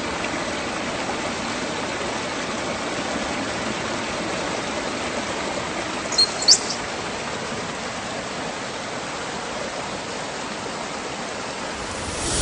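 Waterfall rushing in a steady, even roar. About halfway through, a bird gives two short, high chirps.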